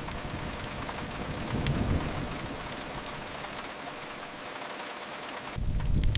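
Steady rain hiss over a low rumble that fades away. Near the end the deep rumble and sharp crackling pops cut back in suddenly.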